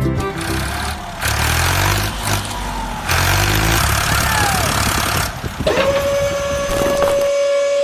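A vehicle engine running loudly with a noisy rush and a few brief whining glides. About six seconds in, a steady single high tone starts and holds.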